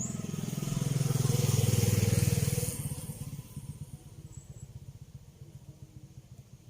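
A motor vehicle drives past close by, its engine and tyre noise growing louder to a peak about two seconds in, then fading away. A quieter engine keeps pulsing evenly underneath.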